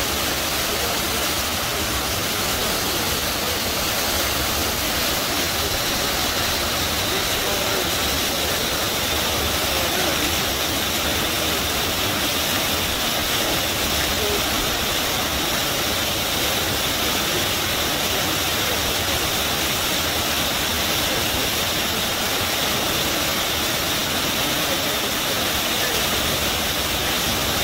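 River water rushing and gushing, a steady, unbroken roar of flowing water.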